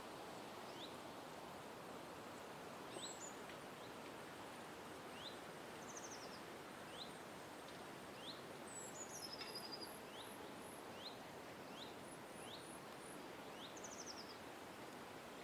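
Several small birds call over a steady background hiss. One repeats a short upward chirp about once a second. Now and then there is a quick descending trill, and a run of very high, rapid notes comes about two thirds of the way in.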